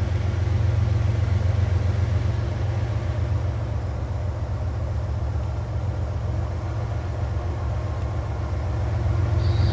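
Diesel locomotive of an approaching freight train working uphill at full throttle: a steady, deep rumble that eases slightly midway and grows louder again near the end.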